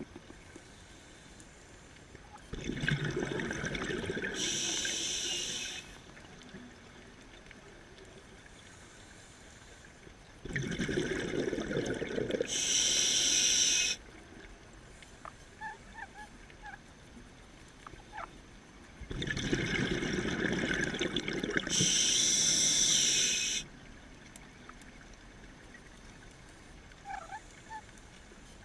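Scuba diver breathing through a regulator underwater: three breaths about eight seconds apart, each a few seconds of rushing bubbles and hiss, with quiet between.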